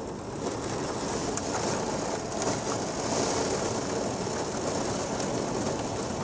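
Heavy rain pouring down, a steady, even rushing noise.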